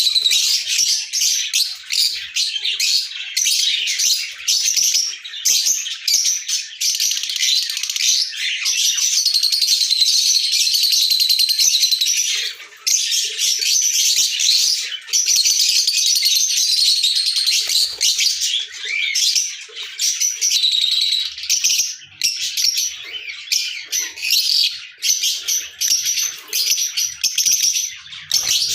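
Lovebirds chattering: continuous, rapid, high-pitched chirping and twittering, with an unbroken run of calls about a third of the way in and only brief pauses.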